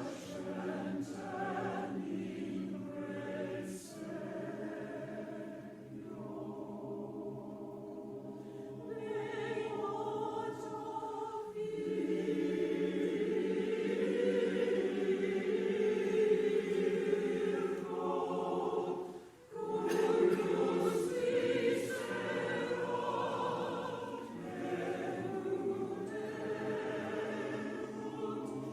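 Chancel choir singing a Christmas choral piece in long, sustained chords, with short pauses for breath, the clearest about two-thirds of the way through.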